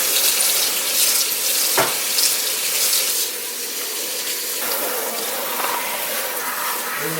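Steady rush of running water, like a tap running into a sink, with one sharp knock about two seconds in; the rush softens a little after about three seconds.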